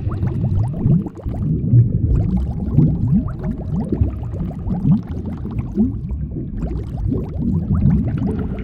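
Continuous bubbling and gurgling of water: a dense stream of short, low bubble sounds, each gliding up in pitch.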